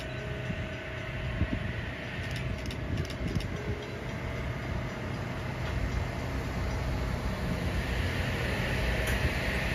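Kawasaki M8 electric multiple unit rolling past slowly. Its wheels rumble on the rails and grow gradually louder as it nears, with a few sharp clicks and a hiss near the end.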